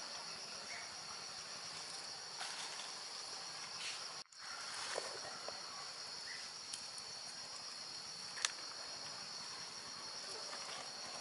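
Steady, high-pitched chorus of insects chirring, with a few faint clicks and knocks; the loudest is a sharp click about eight seconds in. The chorus breaks off for an instant a little over four seconds in.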